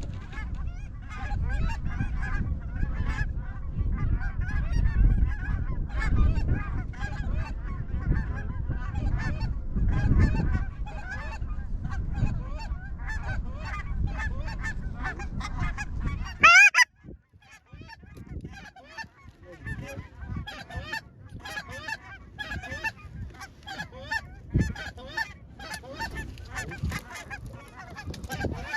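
A flock of geese honking continuously, many overlapping calls, with wind rumbling on the microphone. About 17 s in, the wind noise cuts off abruptly as one loud, rising honk sounds, and the honking carries on more thinly after it.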